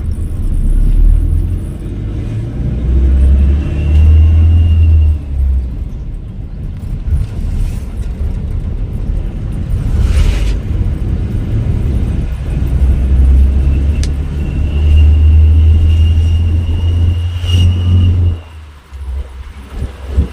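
Motor vehicle driving on a road: a loud, uneven low rumble of engine and road noise, with a thin high tone that comes and goes. The rumble drops away near the end.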